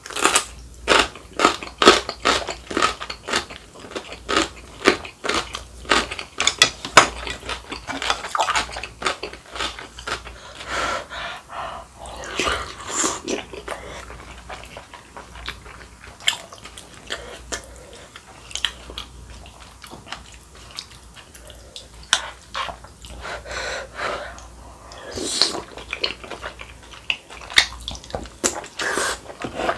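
Close-miked eating: loud, crisp crunching as kimchi is bitten and chewed, dense through roughly the first ten seconds. After that comes softer, wetter chewing and slurping of rice-cake and dumpling soup from a spoon.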